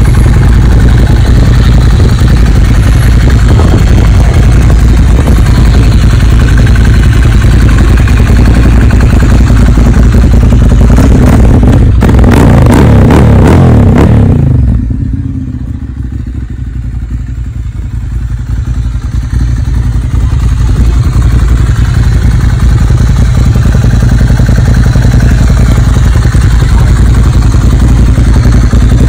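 Ducati Monster 795's air-cooled L-twin running loudly through an aftermarket Termignoni exhaust. Past the halfway point it revs up, then the sound drops away sharply and builds back to a steady run several seconds later.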